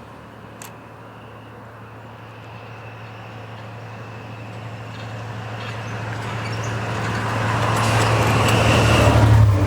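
Diesel locomotive-hauled passenger train approaching, its engine hum and wheel noise growing steadily louder and peaking near the end as it draws level.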